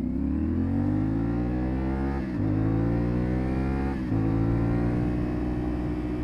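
Motorcycle parallel-twin engine of a CFMOTO 450SS pulling hard under acceleration, its pitch rising. It drops sharply with an upshift about two seconds in and again about four seconds in, then holds a steady pitch.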